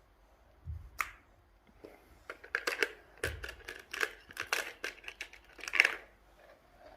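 Crinkling and crackling of something being handled: a single knock about a second in, then a quick run of sharp crackles and clicks from about two to six seconds in.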